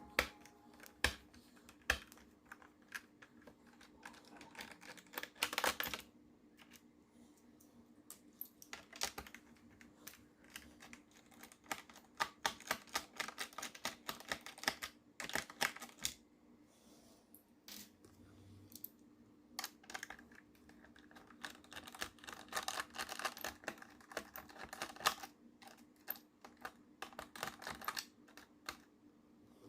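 Irregular clicks, taps and small rattles of hand tools and the plastic case parts of an HP Pavilion dv7 laptop being taken apart, coming in busy clusters with short pauses between, over a steady low hum.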